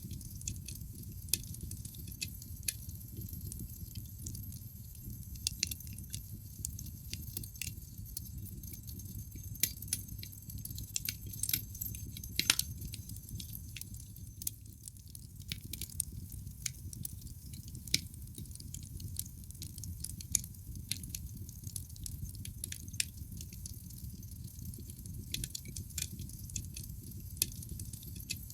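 Wood logs burning in a fireplace: irregular sharp crackles and pops over a steady low rumble, the loudest pop about twelve seconds in.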